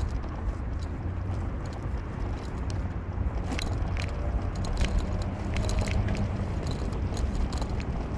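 A car driving, heard from inside: a steady low rumble of engine and tyres, with light clicking and jangling rattles scattered through it, most of them in the middle.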